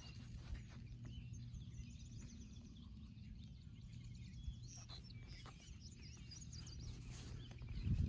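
Small birds chirping and calling, many short high notes scattered throughout, over a steady low outdoor rumble; a louder low rush comes just at the end.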